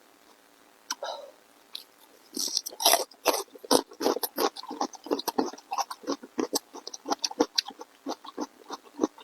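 Close-miked eating sounds: wet chewing and smacking with rapid crackly mouth clicks. They are sparse at first and become busy and continuous from about two and a half seconds in.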